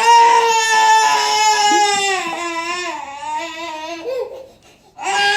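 Baby crying: one long wail that slowly falls in pitch and breaks off about four seconds in, then a new cry starts near the end.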